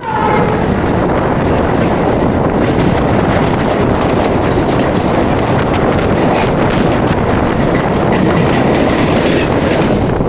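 Express train running at speed: a loud, steady rumble with the clatter of wheels over rail joints. A brief high tone fades out at the very start.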